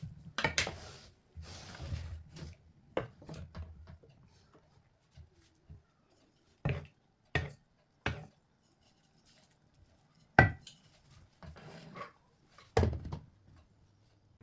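Kitchen handling sounds: scattered knocks and clinks of dishes, utensils and wooden items being set down and moved, with the sharpest knock about ten seconds in.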